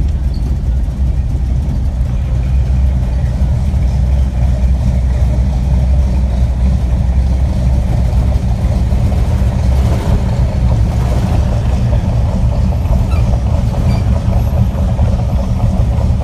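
A 1951 Chevrolet's engine running steadily with a loud, deep rumble, heard from inside the car.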